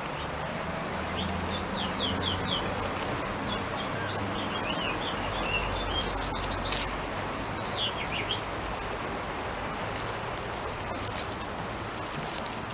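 Small songbirds chirping in short runs of quick, falling notes over a steady background hiss, with one sharp click about seven seconds in.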